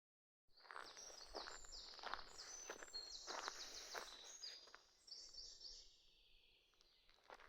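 A small songbird singing a fast string of short high notes that drops lower toward the end, with footsteps crunching on the forest floor. The sound begins about half a second in.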